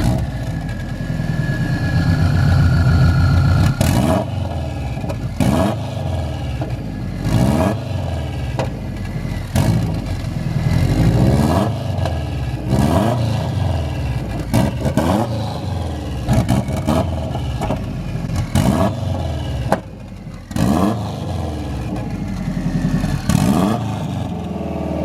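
Car engine being revved repeatedly, about a dozen throttle blips every couple of seconds. Each blip rises in pitch and ends in a sharp crack, then drops back.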